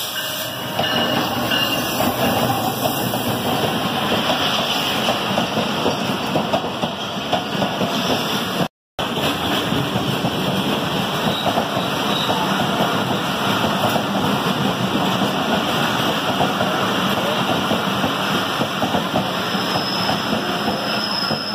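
Diesel-hauled passenger train at a station platform: the locomotive and its coaches rumbling and clattering along the rails, with the voices of a platform crowd mixed in. The sound cuts out briefly about nine seconds in.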